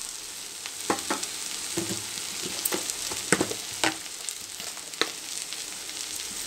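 Ponnaganti greens and chana dal sizzling steadily in oil in a kadai, with scattered sharp crackles and pops every second or so.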